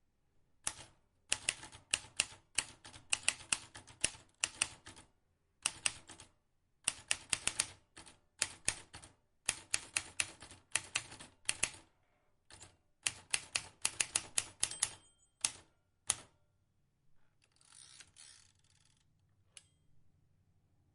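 Vintage manual typewriter being typed on: runs of sharp key strikes, several a second, broken by short pauses. Near the end the strikes stop and there is a brief rasping noise.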